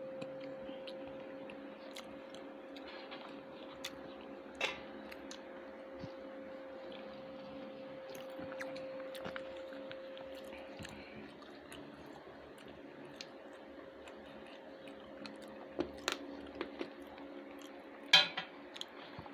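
Close-up chewing and eating: soft mouth sounds with scattered sharp clicks and smacks, the loudest near the end. A steady hum runs underneath.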